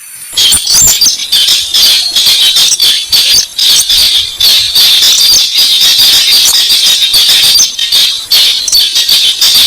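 Recorded buff-banded rail (weris) calls played as a bird lure: a loud, unbroken run of rapid, short, high-pitched notes.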